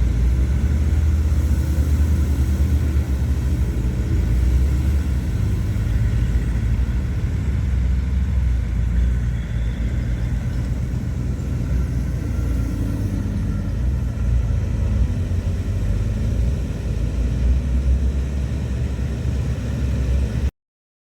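Heavy earthmoving machinery's diesel engine running steadily with a deep low rumble. It cuts off suddenly near the end.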